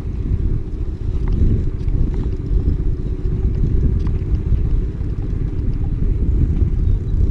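Steady low rumble of wind buffeting the microphone and road noise while riding a bicycle over a potholed road.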